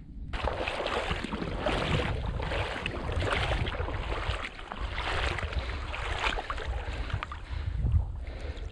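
Water sloshing and splashing in irregular surges as a hunter in waders wades through a marsh pond.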